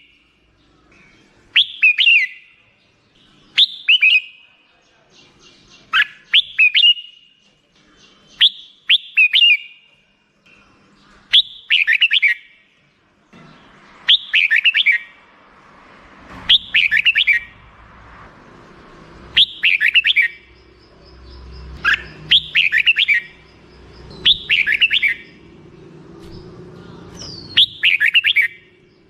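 Red-whiskered bulbul singing short, bubbly song phrases, one about every two to three seconds.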